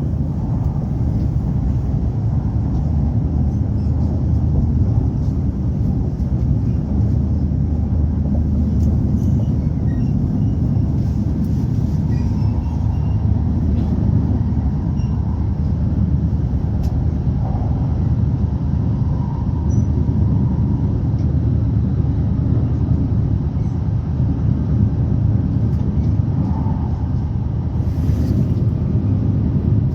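Steady low rumble of an E5 series Shinkansen train running, heard from inside the car.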